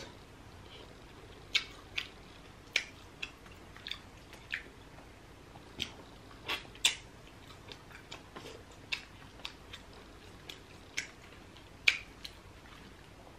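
Close-up eating sounds: wet mouth smacks and chewing clicks at irregular intervals as soft grilled fish is eaten by hand.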